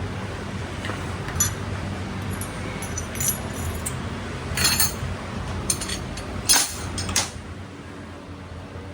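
Metal tools and parts clinking and rattling in several short bursts, over a steady low hum.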